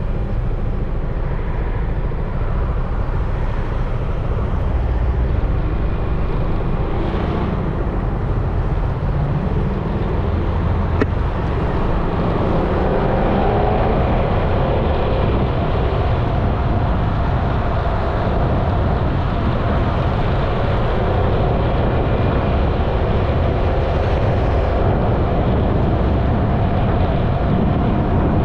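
Yamaha XMAX 300 scooter riding along, its single-cylinder engine running under steady wind and road noise. The engine's tone grows a little clearer and louder about halfway through.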